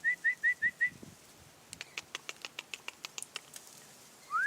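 A person whistling to call birds: a quick run of about six short, even whistled notes. About two seconds in comes a quick run of about a dozen sharp ticks, fainter than the whistles.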